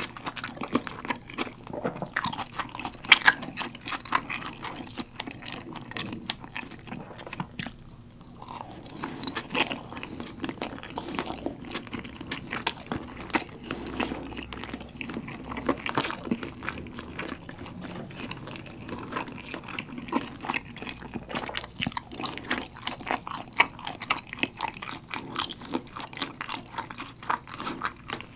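Close-miked chewing of a mouthful of spicy bulgogi pizza, with crunching and clicking mouth noises and a short lull about eight seconds in.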